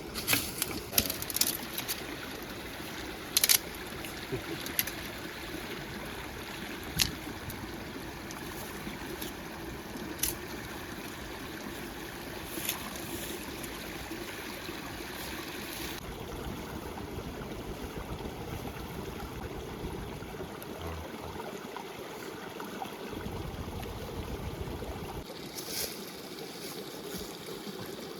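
River water flowing steadily, with a few sharp knocks in the first half.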